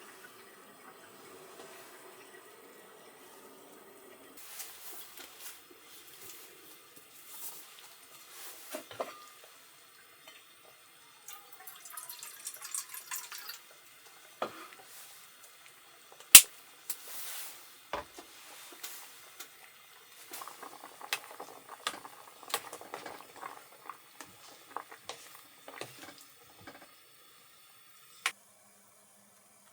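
Water being poured and handled, with scattered sharp clicks and knocks of small objects being set down. The loudest click comes about sixteen seconds in.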